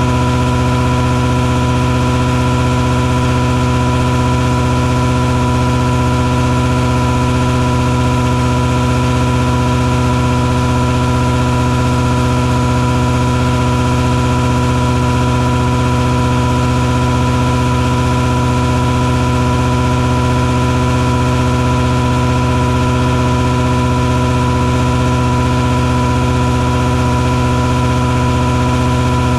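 Engine of a mosquito-fogging truck running steadily, a constant drone with a clear high tone held over it, never changing in speed or loudness.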